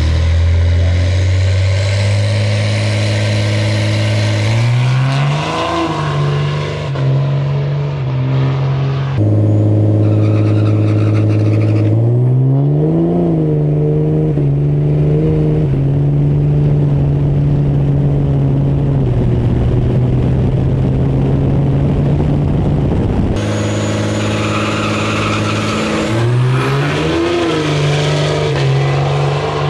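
Diesel pickup truck engines revving, holding high rpm and stepping the revs higher in stages, with quick blips up and down, in several cut-together stretches. A faint high whine rises twice as the revs climb.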